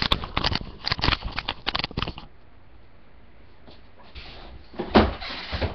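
Rain on a rooftop, heard through a webcam microphone: a dense spell of irregular tapping and clattering for about two seconds, then an even hiss that swells again, with one loud knock about five seconds in.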